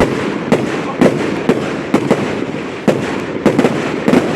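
Fireworks going off in quick succession: sharp bangs about two a second at uneven spacing, over a continuous crackle.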